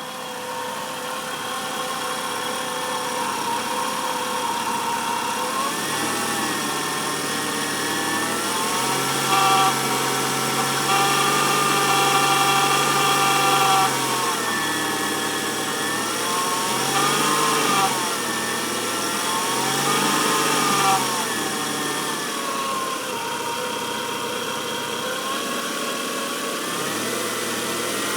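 1994 Nissan Altima's 2.4-litre four-cylinder engine idling and revved several times, held higher for a few seconds about a third of the way in and then blipped briefly three more times. It carries a noise that is most noticeable near 2000 RPM, which the owner first traced to the alternator, though a new alternator has not cured it.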